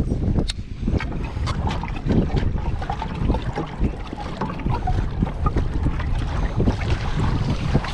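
Wind buffeting the microphone on a kayak out on open water: a gusty low rumble with scattered light knocks and clicks from the boat and gear.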